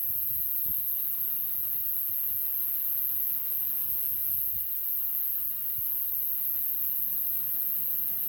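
A wood campfire crackling with faint low pops and knocks, under a steady, very high-pitched hiss.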